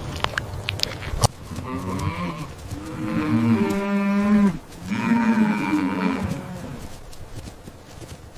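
A cow mooing twice: a long, low call of about three seconds, then a second call right after it that fades out.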